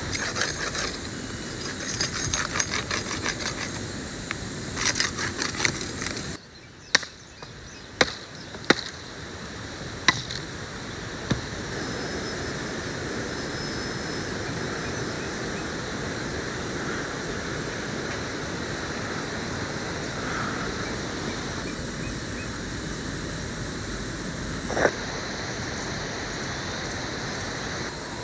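Steady outdoor hiss of jungle background, with a dense rattle over the first few seconds, a run of five sharp knocks a little later, and one more knock near the end.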